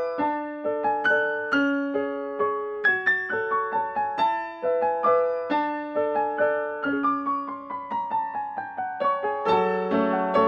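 Gentle piano music: a steady flow of single notes and chords, several a second, each ringing and fading.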